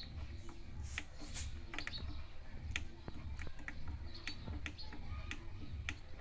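Scattered light clicks and taps over a low hum from the HP Laser MFP 136w laser printer as it is handled with its cleaned toner cartridge back in.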